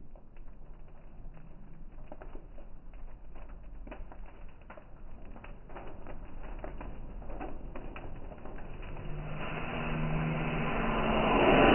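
Fireworks: scattered faint crackles and pops, then from about nine seconds in a hiss that builds steadily louder.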